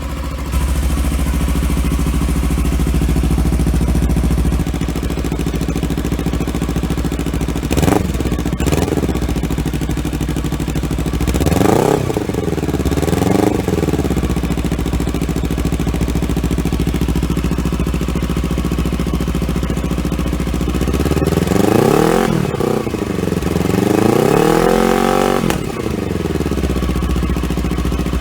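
Kawasaki Versys X300's 296 cc parallel-twin engine idling through an aftermarket slip-on muffler with a throaty note, revved in blips: a short one about eight seconds in, two more around twelve to fourteen seconds, and two longer, higher revs near the end.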